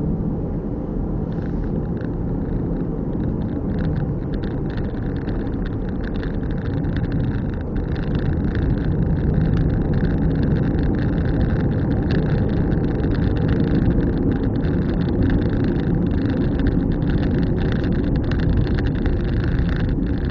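A car being driven, heard from inside: a steady rumble of engine and tyre noise with a fine crackle over it. It gets a little louder about eight seconds in.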